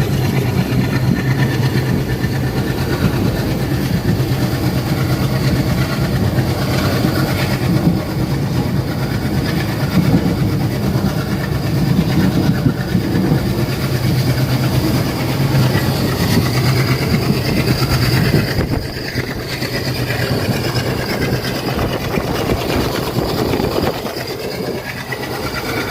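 Passenger express train running on the rails, with steady wheel clatter and a low hum; the noise eases a little about three quarters of the way through.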